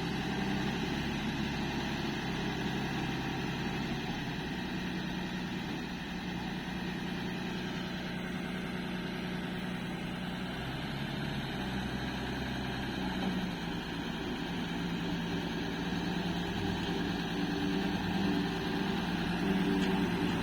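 Truck engine running steadily at low speed, its note shifting slightly a couple of times.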